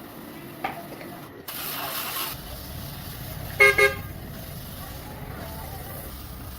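A Honda CR-V's engine starts with a brief rush of noise and settles into a low, steady idle. About a second later its horn beeps twice in quick succession, the loudest sound here.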